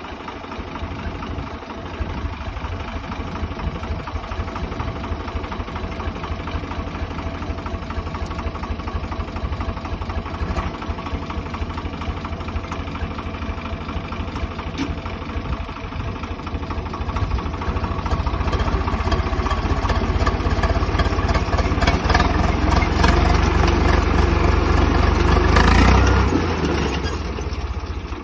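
Swaraj 855 tractor's three-cylinder diesel engine running with a steady low throb. It grows louder through the second half as the engine works harder, peaks a couple of seconds before the end, then eases off.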